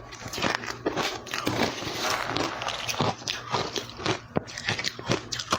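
Ice being bitten and chewed close to the microphone: dense, irregular crunching with many sharp cracks.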